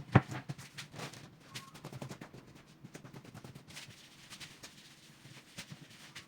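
Cardboard being handled while crafting: one sharp knock just after the start, then scattered small taps and clicks.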